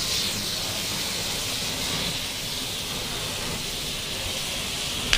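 A steady hiss with no pitch to it, ending in one sharp click.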